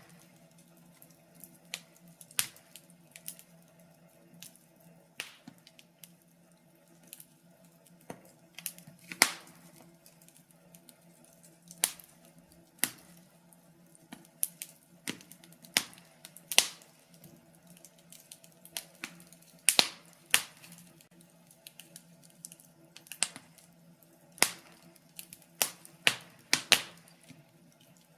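Wood fire crackling: sharp, irregular pops and snaps, some much louder than others, over a faint steady low hum.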